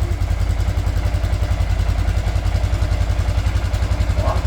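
Motorcycle engine idling steadily, with a loud, even, rapid low pulsing.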